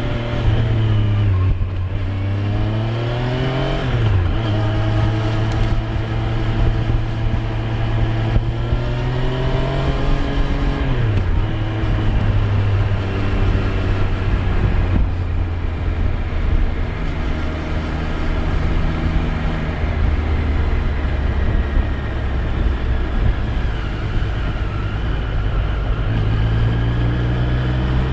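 Triumph Street Triple 765 R's three-cylinder engine pulling through the gears: the pitch climbs and then drops sharply at an upshift, twice in the first dozen seconds. It then runs at steadier, lower revs and picks up again near the end.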